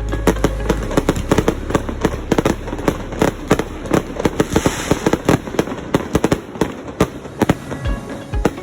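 Aerial fireworks going off in a rapid, irregular string of sharp bangs and pops, several a second, with a brief hissing crackle about four and a half seconds in.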